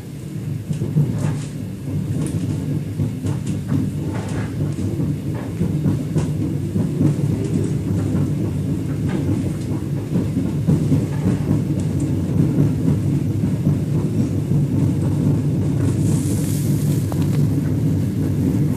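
South Shore Line electric passenger train heard from inside a passenger car: a steady low running rumble with scattered clicks of the wheels over the track, and a brief high hiss near the end.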